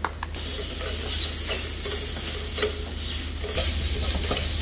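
Yacon slices and seasoned bamboo shoots sizzling in a small solo camping frying pan over a gas burner as they go into the hot pan and are stir-fried, with the utensil clicking and scraping against the pan. The sizzle starts up a moment in and grows louder near the end.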